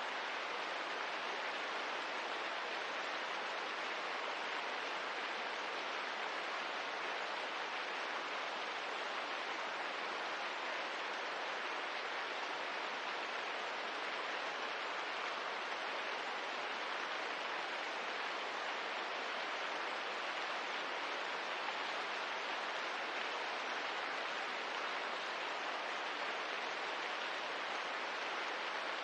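Steady rain ambience: an even, unbroken hiss of rainfall with no distinct drops, crackles or changes.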